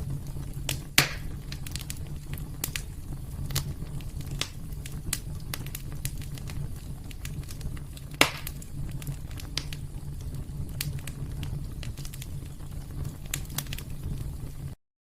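Wood fire crackling in a fireplace: scattered sharp pops over a steady low rumble, with two louder pops about a second in and about eight seconds in. The sound cuts off abruptly just before the end.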